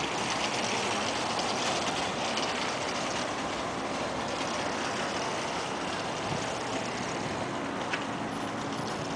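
Alkota 5355J hot pressure washer with its 20 HP engine running: a steady mechanical rush with a few faint clicks.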